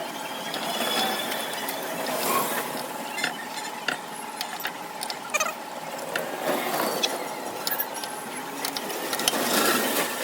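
Irregular metallic clicks, clinks and scrapes from hands-on mechanical work on metal parts, with no engine running.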